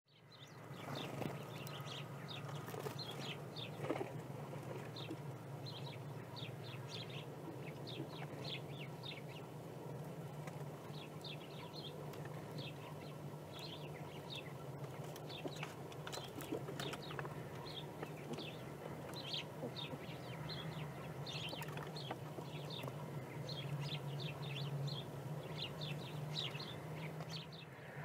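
Small songbirds chirping over and over in short, high calls, with a steady low hum underneath.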